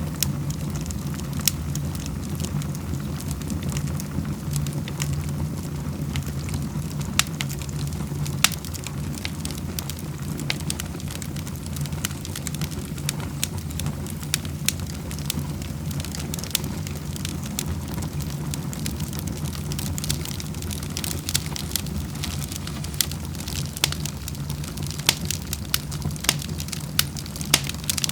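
Wood fire burning in a fireplace, with irregular sharp crackles and pops over a steady low rumble. The pops come more often in the last part.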